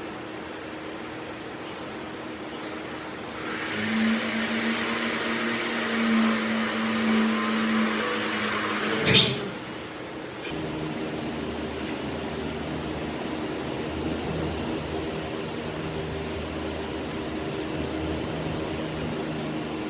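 Electric power tool running for about five seconds with a steady hiss and whine, then stopping with a sharp click; a quieter, steady machine hum follows.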